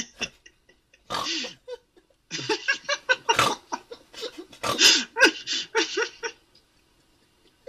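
A man's laughter-like vocal noises, a short burst about a second in and then a run of yelping, animal-like bursts that stops a little over a second before the end.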